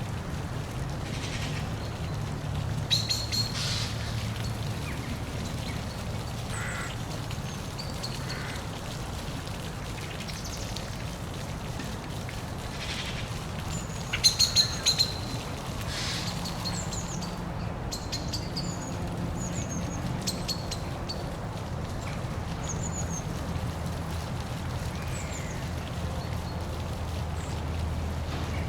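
Birds calling over a steady low rush of background water noise: scattered short high chirps, with two louder bursts of rapid, harsh repeated calls about three seconds in and again about fourteen seconds in.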